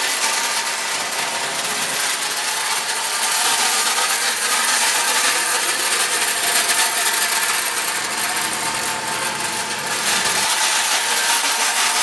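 A 99-year-old toy train running around its track, its gears and wheels making a steady mechanical rattle and clatter.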